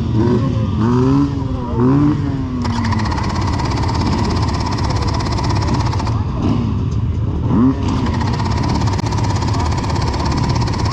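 Several dirt bike engines running and revving, their pitch sweeping up and down in the first few seconds and again about eight seconds in.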